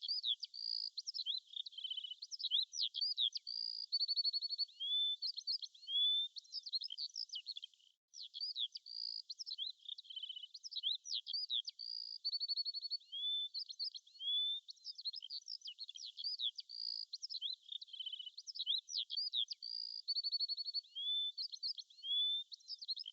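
Songbird singing: a quick, continuous run of chirps, whistled slurs and short trills, with the same phrase sequence recurring about every eight seconds like a looped track.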